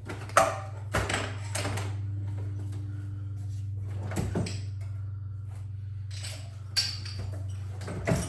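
A handful of sharp metal knocks and clanks from tools and parts being handled while the wheels come off a Graco airless paint sprayer's cart. The loudest comes just under half a second in, and a steady low hum runs underneath.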